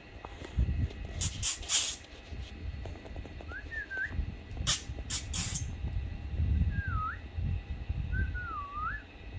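Four short whistled notes, each bending down and back up, at about 3.5, 7, 8.5 and just after the end, over low rumble; two loud bursts of hiss come about a second in and about five seconds in.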